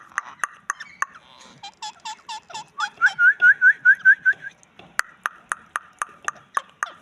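Indian ringneck parakeet calling: short sharp calls repeated about four times a second, broken in the middle by a quick run of falling notes and then a louder burst of rapid rising chirps before the steady calls resume.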